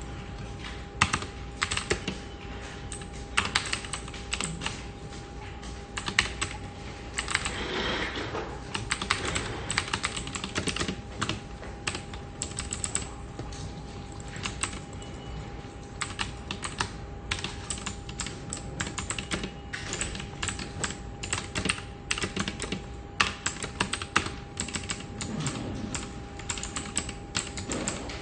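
Computer keyboard typing: irregular runs of quick key clicks with short pauses between them, over a steady faint hum.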